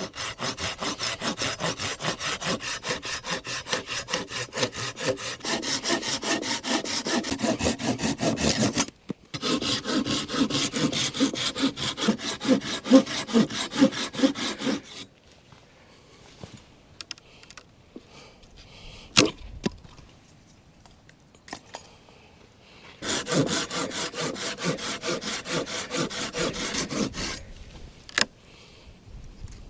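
Hand saw cutting wood in quick, even back-and-forth strokes. There is a long bout with a brief break about nine seconds in, then a pause of several seconds with a few knocks and clicks, then another bout of about four seconds.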